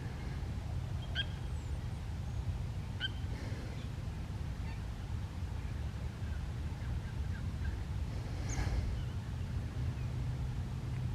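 Birds calling outdoors: short chirps about one and three seconds in and a louder call about eight and a half seconds in, over a steady low rumble.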